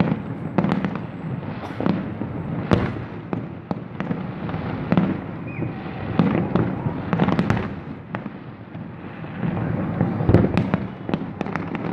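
Fireworks display: a bang every half second or so, easing off about eight seconds in before a loud cluster of bursts near the end.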